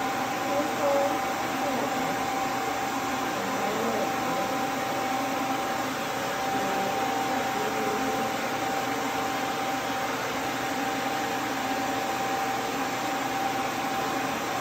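Duz V3 pet dryer blowing steadily: an even rush of air with a steady whine running through it.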